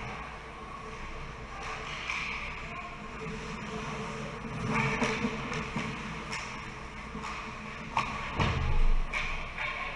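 Ice rink ambience during a youth hockey game, with scattered clacks of sticks and puck over a steady background. About eight seconds in there is a sharp crack, then a heavy thud.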